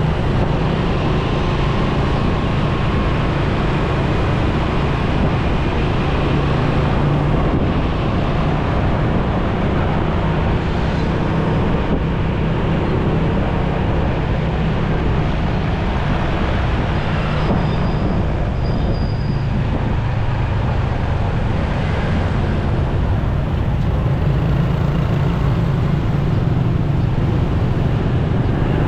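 Motorcycle engine running steadily while riding in traffic, with wind and road noise over it.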